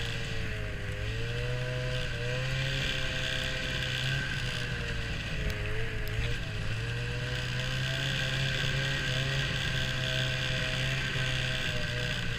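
Vehicle engine running steadily under way, its pitch wavering up and down as the speed changes.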